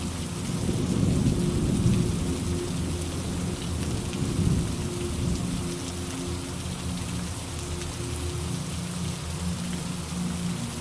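Steady rain falling, with a low rumble of thunder that swells up about half a second in, peaks around two seconds, and comes back more briefly a couple of seconds later.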